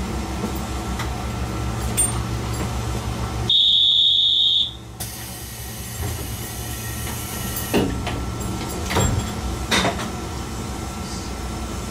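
Chizu Express HOT3500 diesel railcar running, heard from the front of the cabin as a steady engine and rail drone. About three and a half seconds in there is a single high-pitched beep lasting about a second, and a few short knocks come later.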